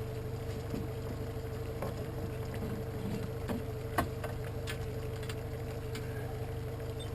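Boat motor running steadily under way: a low hum with a steady whine above it, and a few faint clicks, one a little louder about four seconds in.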